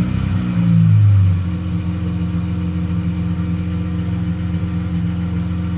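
2016 Dodge Challenger SXT Plus's V6 running through a custom Flowmaster Super 40 exhaust: a short throttle blip in the first second or so, then a steady idle.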